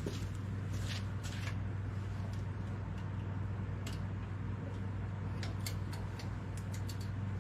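Scattered light clicks and rustles of handling, with a cluster of clicks about two-thirds of the way in, over a steady low hum.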